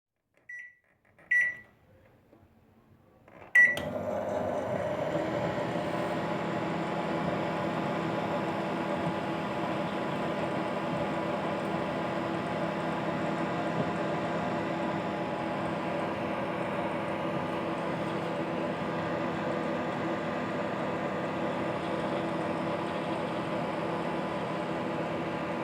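Samsung GE732K-S/SUT microwave oven: two short beeps, then a click and beep about three and a half seconds in as it starts, followed by the steady hum of the oven running.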